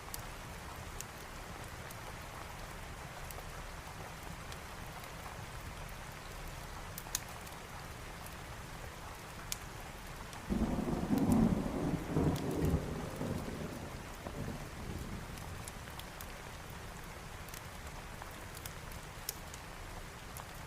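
Steady heavy rain with a thunderclap about halfway through that rumbles low for a few seconds and fades. Scattered faint crackles sound over the rain.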